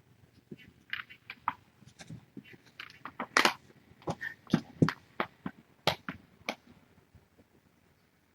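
A string of irregular clicks, taps and rustles, about a dozen over several seconds, dying away near the end: handling noise as a kitten is held and moved about during a vet exam.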